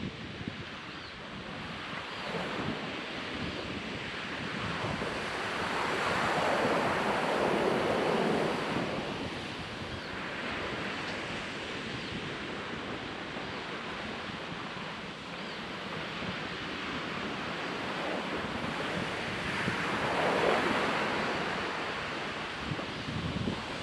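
Ocean surf washing onto a sandy beach: a steady hiss of water that swells twice, as waves break about a third of the way in and again near the end. Wind buffets the microphone underneath.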